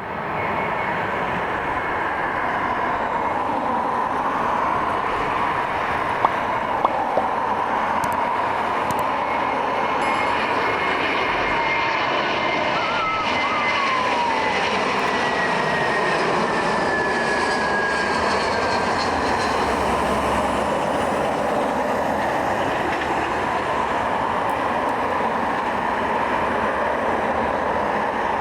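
Jet noise of an Airbus A321-131's IAE V2500 turbofans as the airliner passes, a loud, steady rush with a faint whine that slowly falls in pitch about halfway through.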